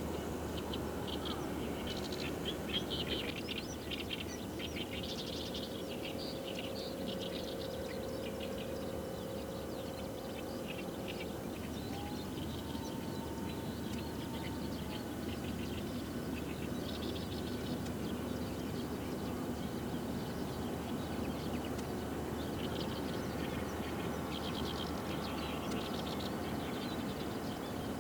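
Wild birds chirping in quick clusters of short, high calls, a couple of seconds in and again near the end, over a steady low background rumble.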